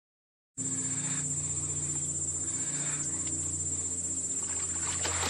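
Insects chirping in a steady, high-pitched chorus, starting about half a second in, over a low steady drone.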